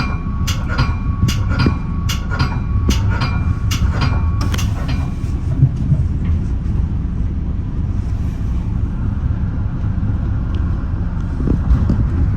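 Metra bi-level commuter train running with a steady low rumble. A bell rings at about two strikes a second over it and stops about five seconds in.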